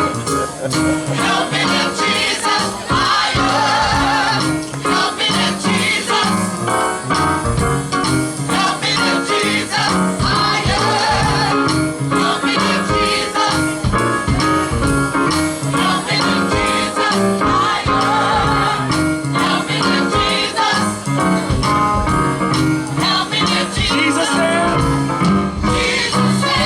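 Gospel group performing live: singers with a band, drums keeping a steady beat, possibly with tambourine.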